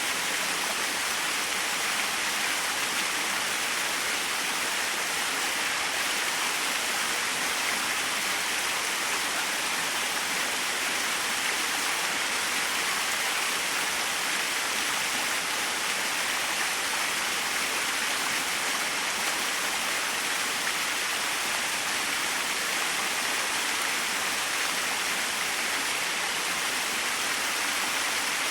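Small waterfall splashing: a steady, even rush of falling water with a bright hiss and little low end.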